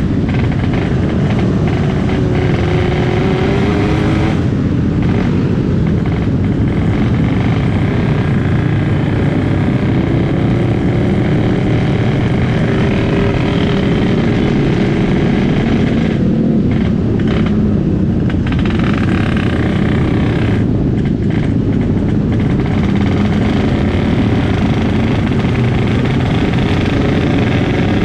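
Yamaha RX-King 135 two-stroke single-cylinder motorcycle ridden hard, its engine revving up repeatedly with rising pitch. The note drops back briefly three times, about 4, 16 and 21 seconds in. The bike is tuned for a raspy 'ngorok' exhaust note.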